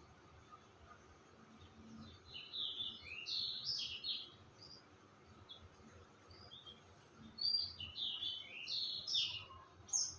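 A songbird singing two phrases of quick, high chirping notes a few seconds apart, with a short single note near the end.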